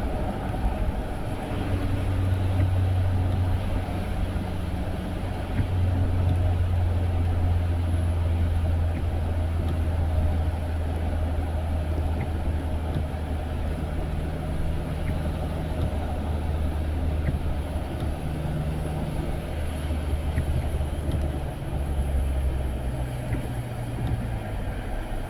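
A car driving: a steady low engine hum and road noise heard from inside the vehicle, the engine note shifting in pitch a few times.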